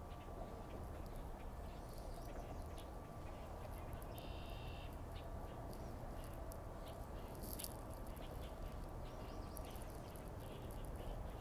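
A bird calling over a steady low outdoor rumble, with one clear call of under a second about four seconds in and scattered faint ticks.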